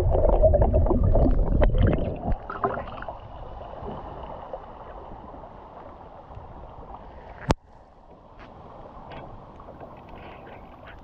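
Wading through a shallow creek: water sloshing and splashing around the legs, loud for the first couple of seconds, then the quieter steady rush of flowing creek water. One sharp click comes about seven and a half seconds in.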